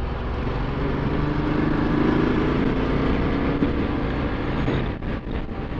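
Ducati Multistrada 1260 S motorcycle's V-twin engine running at a steady road speed, with wind and road noise on the camera's microphone; the engine note swells a little in the middle, then eases.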